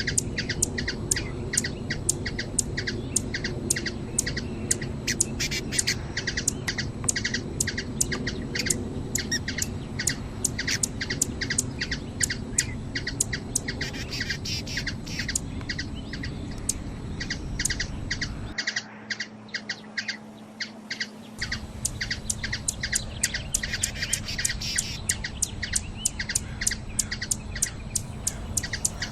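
Hummingbird calling: a long, steady series of short, sharp chip notes, about three a second, over a low background hum that drops out briefly about two-thirds of the way through.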